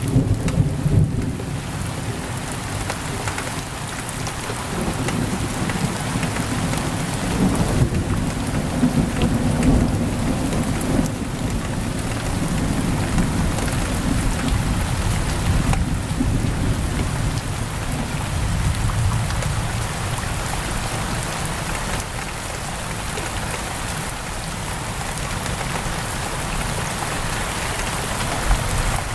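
Heavy rain pouring steadily on a window, with a low rolling rumble of thunder that fades out about two-thirds of the way through.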